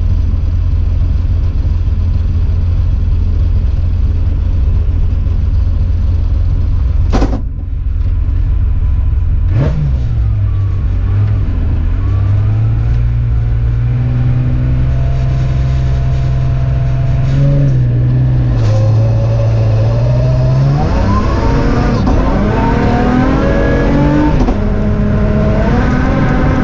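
BMW M3 rally car's engine heard from inside the cabin: it runs with a heavy low rumble, with two sharp clicks about seven and ten seconds in, then is held at steady raised revs on the start line for about ten seconds. Around twenty seconds in the car launches and the engine note climbs repeatedly as it accelerates hard through several gear changes.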